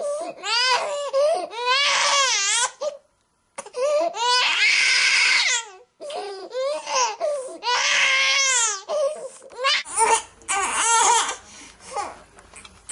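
Infant crying: a run of wailing cries that waver up and down in pitch, with a harsher, strained cry about four seconds in. From about ten seconds in the cries turn shorter and choppier, over a faint low hum.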